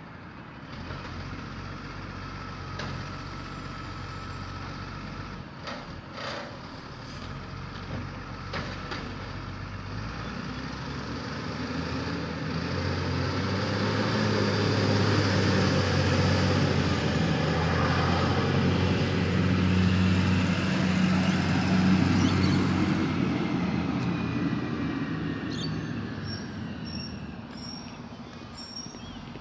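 Garbage truck's diesel engine growing louder to a peak about halfway through, then fading away.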